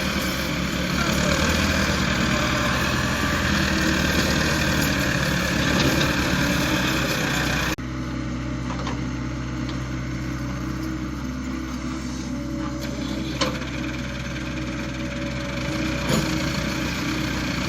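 Massey Ferguson 385 tractor's diesel engine running steadily. It changes abruptly about eight seconds in to a quieter, even running.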